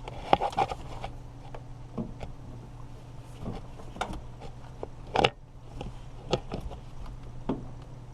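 Scattered clicks and knocks from hand work on a car door's inside door handle and trim parts, about eight separate taps, the loudest a little after five seconds in, over a steady low hum.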